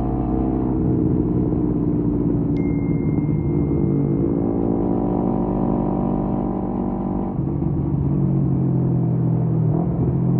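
Kawasaki Z250 parallel-twin engine running through an aftermarket SeaPro muffler while cruising. The exhaust note holds steady, then steps to a new pitch a few times as the engine speed changes.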